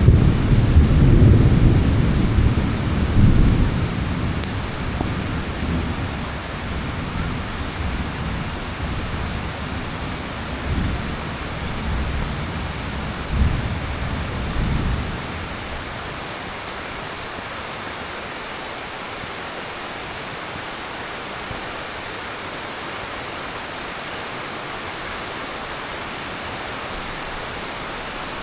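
Steady heavy monsoon rain with a long roll of thunder that is loudest at first and rumbles on with a couple of further swells before dying away about halfway through. After that only the even hiss of the rain remains.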